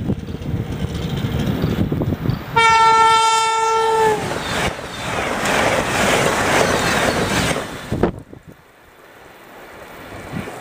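Sm6 Allegro high-speed electric train approaching and passing through a station at speed. A low rumble builds, then about two and a half seconds in the train gives one long horn blast whose pitch drops at its end as the train goes by. Several seconds of rushing and wheel clatter from the passing cars follow, cutting off sharply about eight seconds in as the last car clears, leaving a faint fading rumble.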